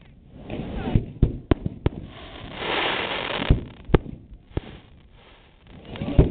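Aerial firework shells bursting overhead: a string of sharp bangs, several in quick succession about a second in and more around three and a half to four and a half seconds and near the end, with a stretch of hissing in the middle.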